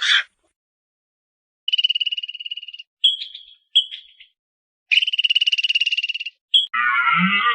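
A frog calling in rapid pulsed trills: two trills of about a second each, with short chirps between them. A different, lower-pitched animal call starts near the end.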